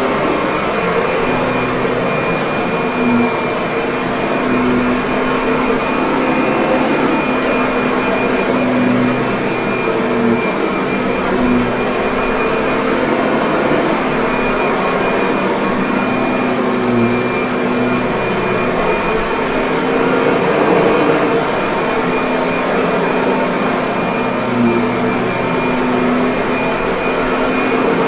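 Kirby upright vacuum cleaner running steadily: an even rush of air with a constant motor hum and a few held tones, unchanging in level.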